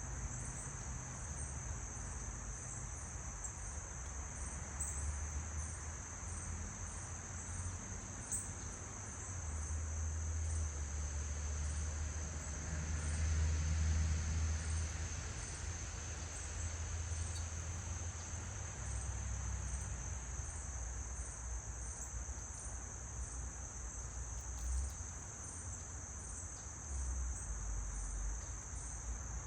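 Continuous high, steady trilling of an insect chorus, typical of crickets, over a low rumble that swells in the middle and fades again.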